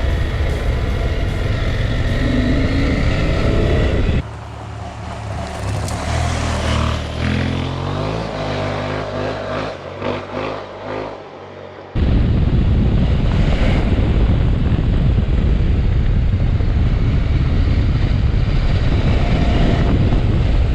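Motorcycle riding with heavy wind noise on the microphone. About four seconds in the sound cuts to a quieter stretch where the engine is heard revving up and down through the gears, then about twelve seconds in it cuts back to loud wind and engine.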